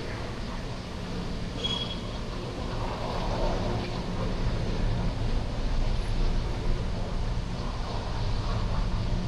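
Diesel locomotives of a departing freight train running under power: a steady low engine drone over rolling rumble, growing gradually louder.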